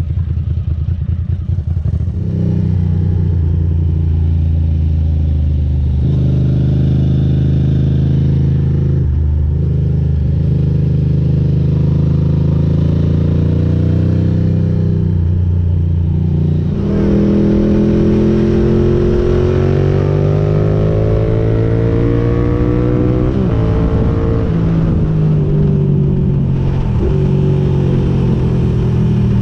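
Ducati GT1000's air-cooled 992 cc L-twin through Termignoni exhaust pipes, pulling under load while riding, with the engine note holding, then dropping and picking up again at several gear changes. About halfway in, a long pull climbs steadily in pitch for several seconds before the revs fall away sharply.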